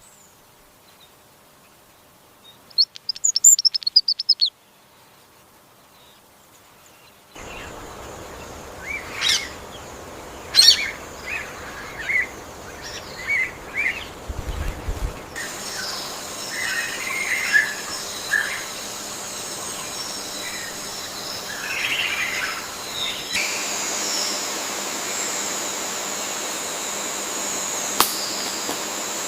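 Birds chirping and calling over a steady forest hiss. A quick run of high chirps comes a few seconds in, then many short calls follow one after another.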